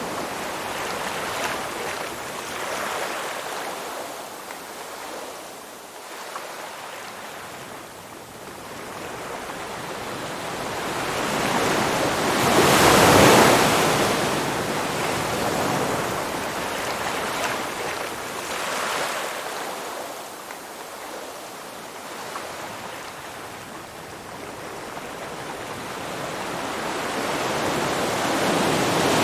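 Ocean surf: waves washing in with a hissing rush that builds to a loud break about halfway through, falls away, and builds again near the end.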